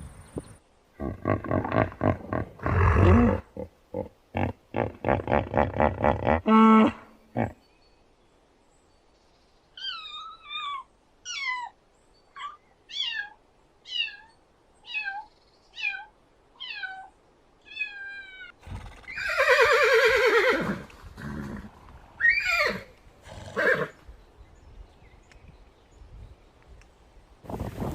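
A series of different animal calls: first a quick run of rough pulsing grunts, then a string of about ten short high calls, each falling in pitch, roughly one a second, then a louder drawn-out call followed by a few shorter ones.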